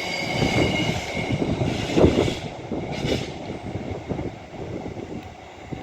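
Class 390 Pendolino electric train running along the track, a rumble with a high whine that fades in the first couple of seconds. The sound grows quieter as the train draws away.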